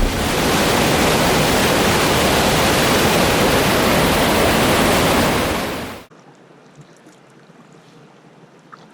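A large waterfall rushing loudly and steadily. About six seconds in it cuts off abruptly, giving way to a much fainter, quieter water sound with a few light ticks.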